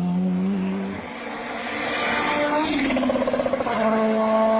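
Rally car engine at high, steady revs, dropping away about a second in, then climbing back to a steady high note for the last second or so, with a rushing noise of the car's passage in between.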